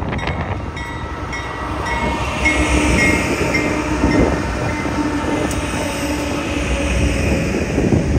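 A BNSF freight train passes close by: its diesel locomotives go by with a loud, steady rumble and a held whining tone through the middle. Near the end the rumble of refrigerated boxcars rolling over the rails follows.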